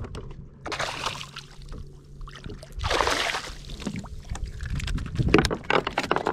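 Water splashing and sloshing at the side of a kayak in two surges, about a second in and around three seconds in, then a run of short clicks and knocks near the end.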